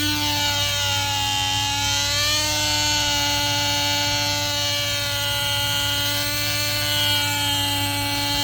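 Small nitro glow engine of a Lite Machines LMH-110 RC helicopter running at flying speed with its rotor spinning: a steady, high-pitched buzz that steps up slightly in pitch about two seconds in as it goes for lift-off. The engine is set rich, on the stock needle setting.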